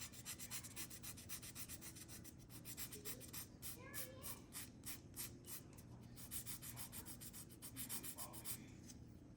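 Quick, even back-and-forth rubbing strokes on a small plastic scale-model part, about four or five a second, with a brief pause near the end.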